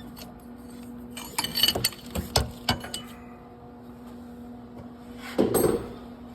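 Metal wrench clinking and knocking on a nut welded to a broken exhaust manifold bolt as the bolt is worked loose. There is a cluster of sharp clinks in the first few seconds and a louder scrape about five seconds in, over a steady hum.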